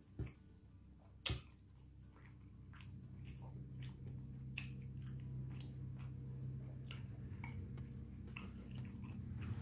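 Close chewing of rice and beef rendang, with many small wet mouth clicks and two sharper clicks in the first second and a half. A low steady hum grows louder from about three seconds in.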